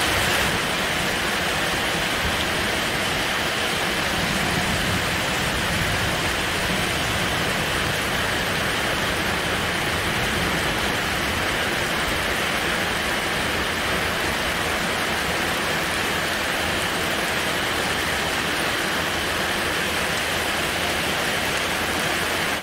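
Heavy rain pouring down steadily, a dense even hiss of water without a break.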